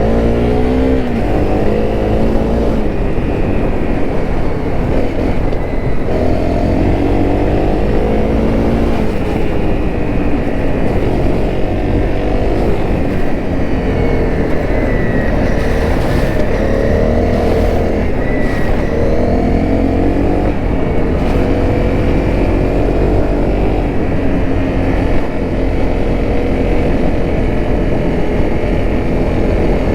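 Honda CRF250L's single-cylinder four-stroke engine running under way, its pitch rising and then dropping again and again as it revs up through the gears, over a steady low rumble.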